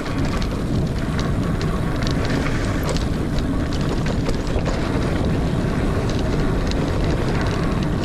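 Wind noise on the microphone and the tyres of a Niner Air 9 RDO 29er mountain bike rolling fast over dirt singletrack, a steady rush with scattered sharp clicks and rattles from the bike.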